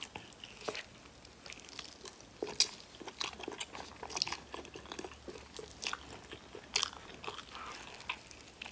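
Close-up eating sounds of a person biting into and chewing a large piece of braised meat, with irregular short sharp clicks of the mouth.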